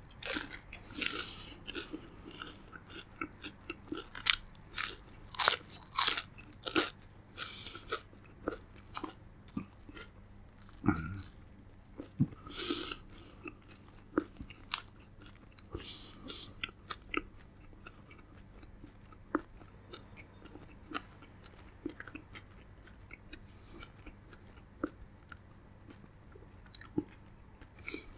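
Close-miked crunching and chewing of crisp fried spring-roll wrappers, with sharp crackling bites that are densest and loudest in the first several seconds, then sparser and softer.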